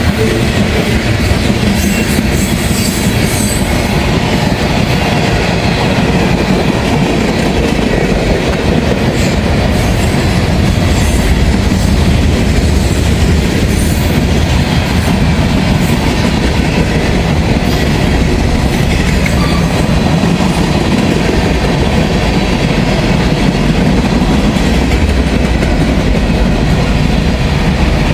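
Freight train cars rolling past close by: a steady, loud rumble of steel wheels on rail, with clattering as the wheels cross rail joints.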